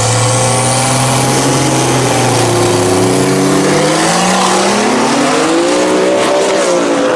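Turbocharged BMW M50 straight-six of a drag-racing Audi S2 running hard at a steady pitch, then climbing steadily in pitch from about three seconds in as the car accelerates down the strip.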